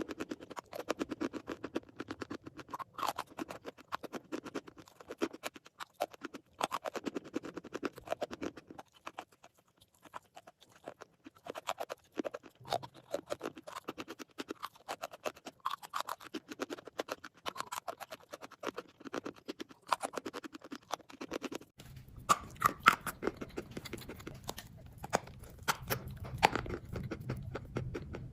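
A person biting and chewing crunchy chalk close to the microphone: rapid crisp crunches and crackles that come in runs, with a short pause about a third of the way in. From about three quarters in, a low steady hum sits underneath.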